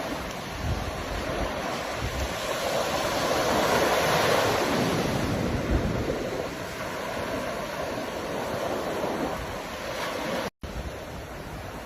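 Ocean waves washing on the shore, the surf swelling to its loudest about four seconds in and then easing. The sound cuts out completely for an instant near the end.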